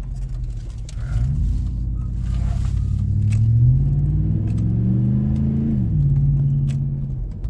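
Pickup truck's 5.3-litre V8 accelerating, its pitch climbing steadily for several seconds, then dropping sharply about six seconds in and running on steady.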